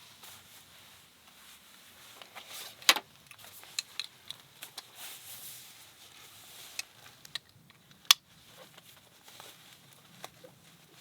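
Scattered small clicks, rustles and knocks of things being handled, with two sharp clacks about three and eight seconds in.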